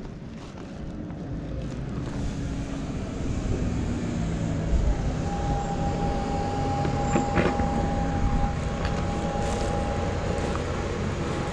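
A motor vehicle engine running, its low hum growing louder over the first few seconds. About halfway through, a steady high-pitched whine joins it.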